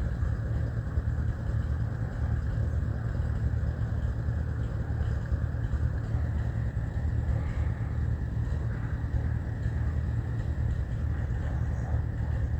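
Allis-Chalmers farm tractor engine running steadily with a low, even throb.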